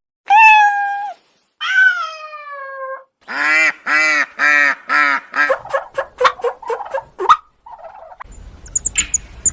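A string of animal calls, one after another. First comes a long call, then one that falls in pitch, then honk-like calls about two a second, then quicker calls. The sound turns to a noisy background with faint high chirps near the end.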